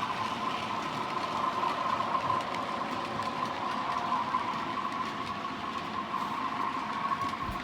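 Diesel locomotive-hauled passenger train running, with a steady high whine over an even rumble.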